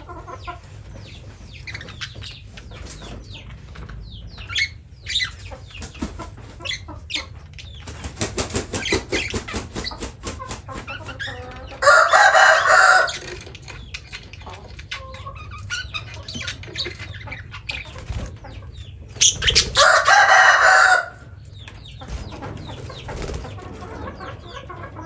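Birds chirping and calling, with a rapid flutter of wings about a third of the way in. Two loud, drawn-out calls of over a second each come in the middle and about three-quarters of the way through.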